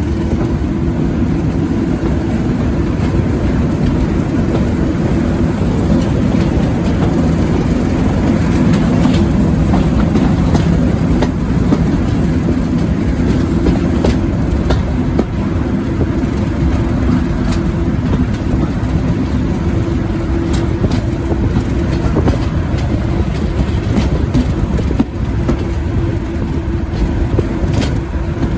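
Diesel locomotive engine running loudly and steadily, with a few sharp clicks.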